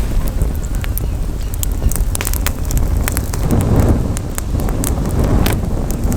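Campfire crackling, with frequent sharp pops and snaps, over wind buffeting the microphone that swells about halfway through and again near the end.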